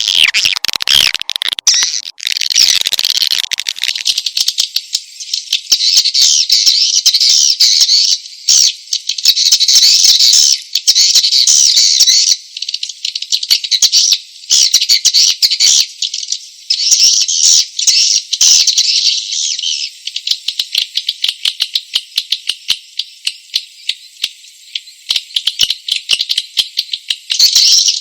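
Swiftlet lure call recording: dense, rapid, high-pitched twittering chirps of swiftlets, the kind played to draw swiftlets into a nesting house. The chirping thins to scattered calls about two-thirds of the way through and comes back thick near the end.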